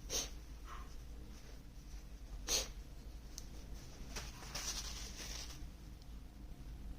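A person sneezing, two short sharp bursts: one at the start and one about two and a half seconds in. A softer rustle follows near the five-second mark.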